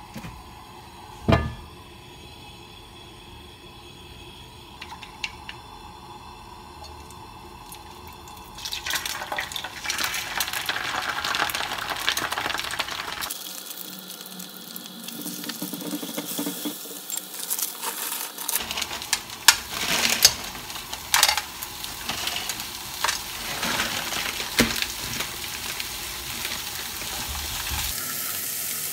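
Beaten egg hitting hot oil in a nonstick frying pan and frying with a loud, steady sizzle. The egg is then stirred and scrambled with green peas, a wooden utensil clicking and scraping against the pan over the sizzle. Before the egg goes in, the pan is fairly quiet apart from a single knock about a second in.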